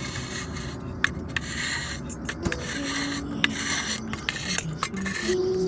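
Repeated scraping and rubbing strokes on the surface of a campfire-fired clay piece, with a few sharp clicks, as someone tests whether the blackened firing surface will scrape off; it does not come off. Faint held ocarina notes sound underneath.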